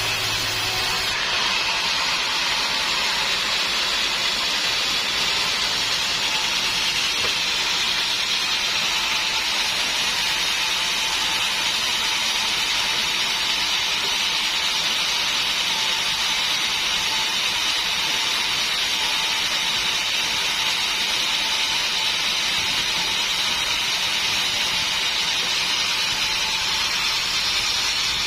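Sawmill saw cutting through a hardwood log, a steady high-pitched hissing noise that holds unbroken throughout.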